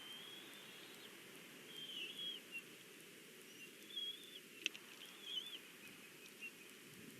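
Faint, high whistled bird calls: several short warbling phrases a second or two apart over a steady outdoor hiss, with one sharp click a little past the middle.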